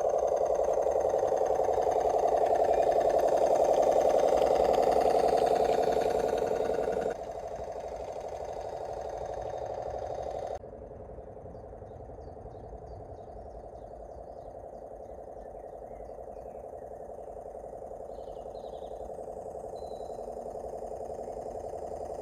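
Model rail bus on a garden railway running along the track, its small electric motor and gearing giving a steady hum. The hum drops abruptly about seven seconds in and again about ten seconds in, then slowly grows louder.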